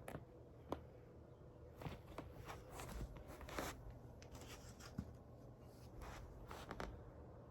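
Faint handling noises: scattered short clicks and brief rustles, a little busier around the middle, over a low steady room hum.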